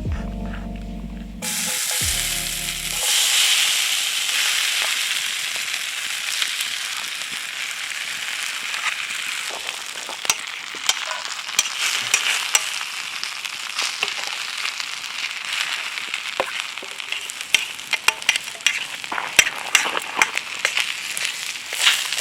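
Food frying in a hot pan: a steady sizzle, with spitting pops that grow more frequent in the second half. Background music plays briefly at the start.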